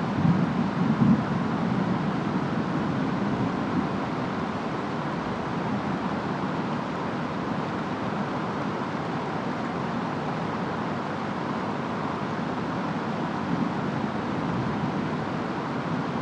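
Steady rain falling with wind, an even hiss. A low rumble in the first second or so eases away into the rain.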